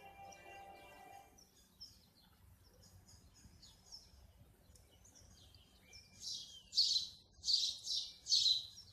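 Small birds chirping: soft, high twittering at first, then from about six seconds in a run of loud, short, shrill chirps in quick succession.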